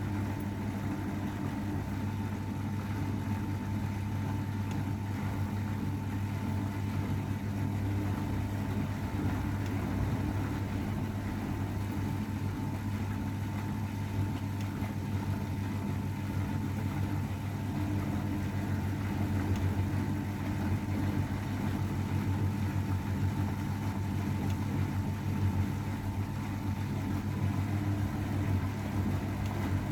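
Old AEG Öko-Lavamat 693 front-loading washing machine running with a steady motor hum and a thin whine above it, unchanging throughout.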